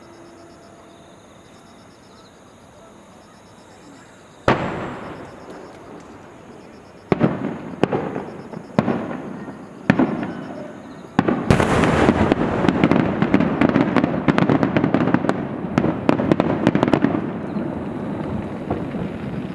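Aerial fireworks bursting: one loud boom about four and a half seconds in with a long rumbling tail, several more booms a second or so apart, then a dense crackling barrage of many sharp cracks that fades near the end.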